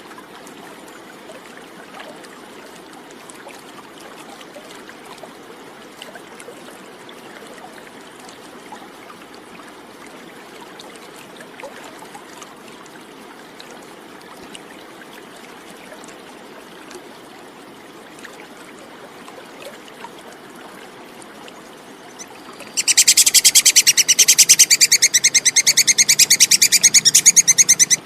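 Faint steady rushing like running water, then about 23 seconds in a squirrel (tupai kekes) breaks into a loud, rapid, high-pitched chattering call of fast, evenly repeated notes.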